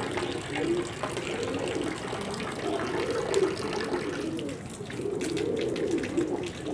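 Pigeons cooing: a run of low, wavering coos, one phrase after another, with a few light clicks in the second half.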